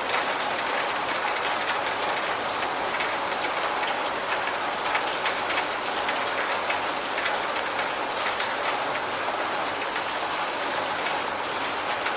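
Steady rain falling, an even dense hiss dotted with many small drop ticks.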